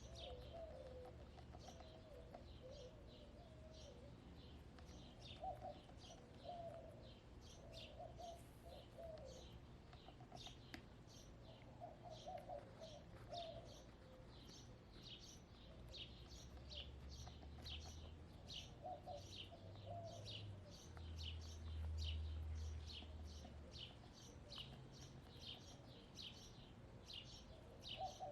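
Faint backyard birdsong: a small wild bird chirping over and over, about two short high chirps a second, over the low, soft murmuring clucks of hens that come in short clumps.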